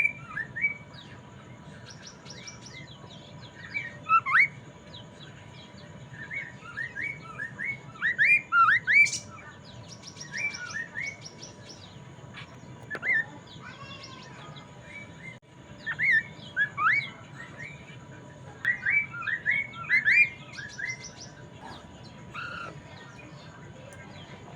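Poksay mandarin laughingthrush singing vigorously, with quick bursts of sharp, rising chirped notes separated by short pauses.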